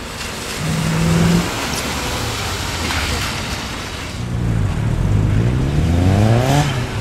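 A car engine revving, its pitch climbing in a long rise over the last few seconds, over a steady hiss of tyres on wet pavement.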